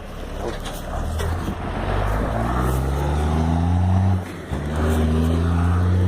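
A motor vehicle's engine accelerating close by, its pitch rising, with a short break about four seconds in like a gear change before it pulls on again.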